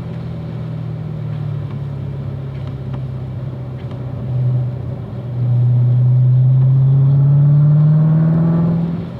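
Corvette Z06's V8 engine running at a steady pace. About five seconds in it gets louder and its pitch climbs slowly under acceleration, then eases off just before the end.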